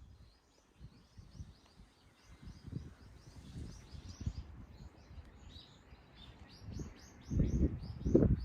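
Small birds chirping: a steady stream of short, high notes, several a second. A few low bumps sit underneath, loudest about seven to eight seconds in.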